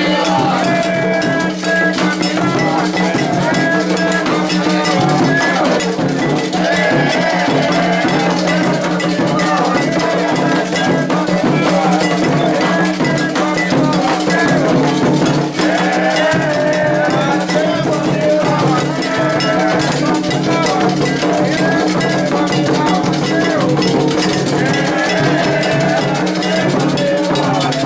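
Candomblé ritual music: an agogô, the iron bell, struck in a steady rhythm under singing voices, with a steady low hum beneath.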